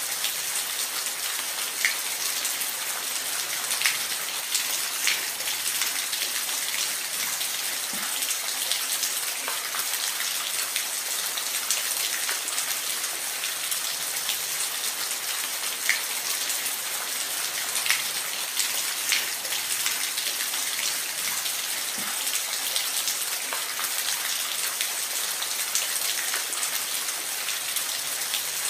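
Steady rain falling in a forest: an even hiss of many drops, with scattered louder single drops standing out every second or two.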